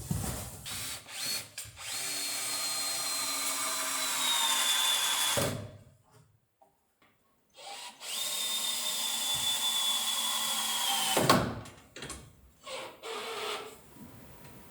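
Electric power tool run twice for about three and a half seconds each, with a steady high motor whine that drops a little in pitch toward the end of each run as it takes the load. A few short knocks and clicks come before and after the runs.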